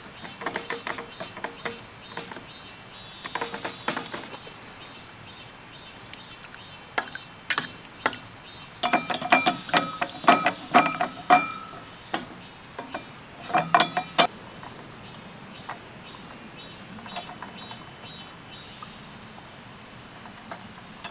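Handled objects clicking and clinking, with two bursts of sharp knocks and ringing metallic tones about nine and thirteen seconds in. A steady high-pitched insect drone runs underneath.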